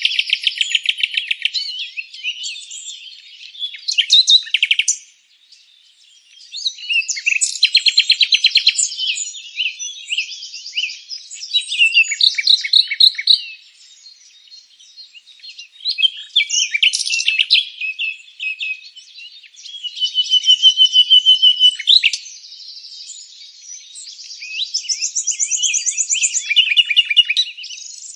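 Songbirds chirping and singing in phrases of rapid trills and chirps. Each phrase lasts a few seconds, with short pauses between them.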